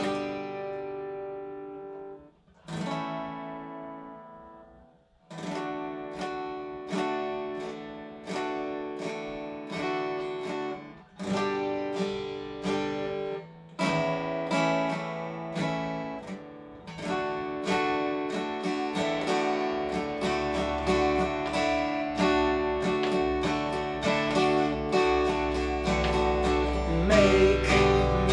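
Guitar played solo: two chords struck and left to ring, then a steady strummed chord pattern that grows louder, the song's instrumental introduction.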